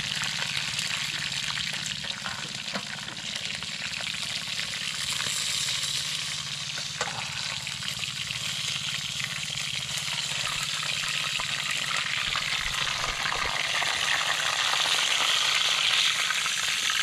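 Fish frying in hot cooking oil in a kawali: a steady crackling sizzle that grows a little louder near the end.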